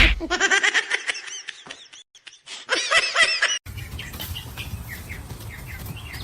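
Quick, high, bird-like chirps in rapid series, with a short break about two seconds in. From about three and a half seconds in, fainter spaced chirps sound over a steady background noise.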